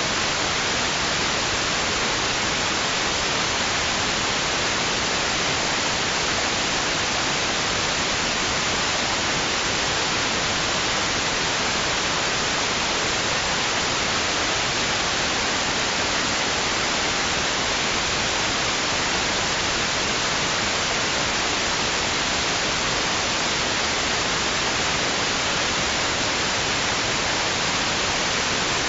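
Steady white noise: an even, unbroken hiss with no rise and fall.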